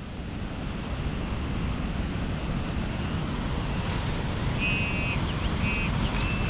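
Heavy wind buffeting the microphone with a steady rush. About four and a half seconds in, an XP Deus metal detector gives two short high beeps and then a longer tone, sounding on a metal target in the ground.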